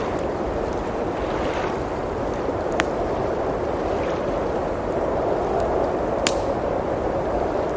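Steady rushing wind of a blizzard with a wood fire crackling; two sharp pops from the fire stand out, about a third of the way in and again later.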